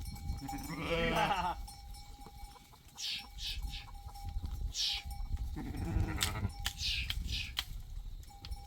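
A goat or sheep bleats twice: a wavering bleat about a second in and a hoarser one about six seconds in. Short high falling chirps come between the bleats.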